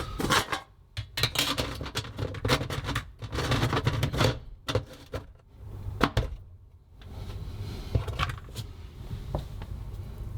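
Irregular plastic-and-metal clicks, knocks and scrapes of dishwasher parts being handled and fitted, for about seven seconds. After that a steady low hum, with a few scattered clicks.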